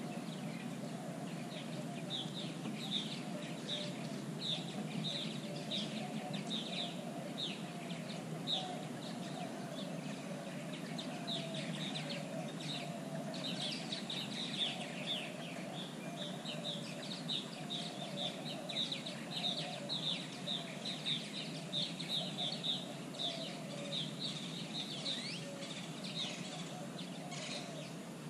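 Birds chirping over and over, short downward chirps coming several a second, with a lower wavering birdcall beneath and a steady low background noise.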